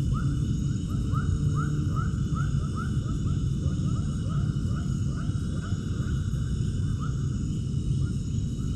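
An animal calling in a quick series of short rising chirps, about three a second, that grow fainter in the second half, over a steady low rumble.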